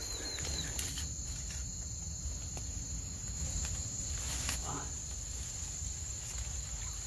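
Crickets chirping in a steady high-pitched trill, with a few faint clicks and short rustles of handling.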